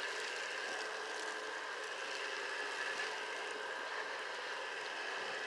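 Steady hiss of water spraying from a pressure washer, with a faint high whine held throughout.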